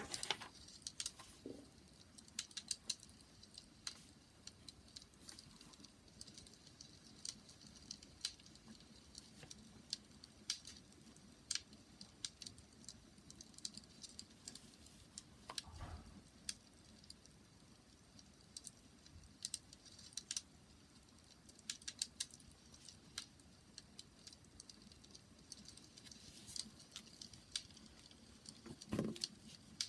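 Wood fire crackling: irregular sharp snaps and pops over a faint hiss, with a deeper thud about halfway through and another near the end.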